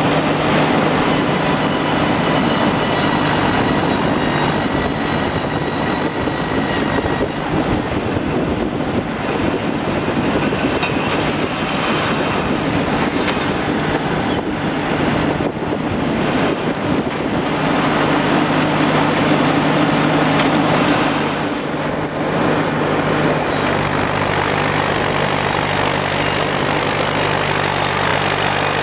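Truck-mounted mobile circular sawmill running: a steady low engine drone under a dense, loud mechanical noise with thin high whining tones from the blade. The noise dips briefly about two-thirds of the way through.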